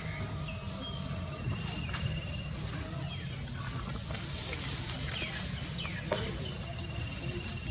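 Baby macaque crying: several short, high-pitched cries that fall in pitch, over a steady low rumble.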